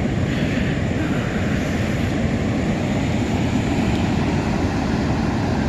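Heavy ocean surf making a steady, even rumble of noise.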